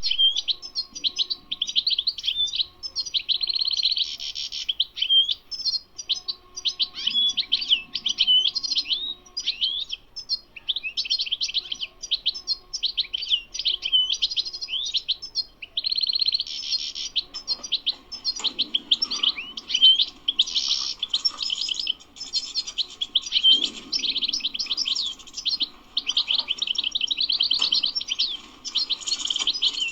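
European goldfinch singing: a long run of rapid, twittering phrases high in pitch, broken every few seconds by brief pauses.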